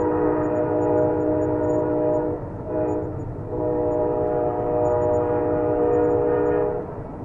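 Train horn sounding a multi-note chord: a long blast that cuts off after about two seconds, a short blast, then another long blast ending just before the end. A steady low rumble runs underneath.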